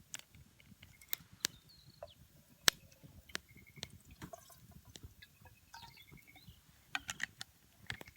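Wood fire crackling, with irregular sharp pops and snaps, one much louder about two and a half seconds in.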